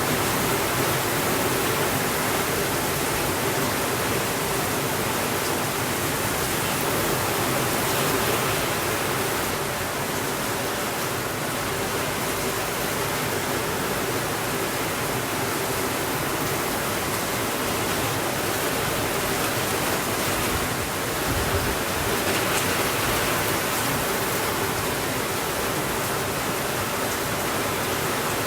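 Steady rainfall: an even, dense hiss with no breaks or sudden changes.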